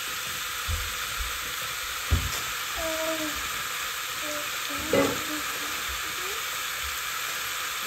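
Beef frying in a hot pan with a steady sizzle. There are a couple of knocks from stirring, the loudest about five seconds in.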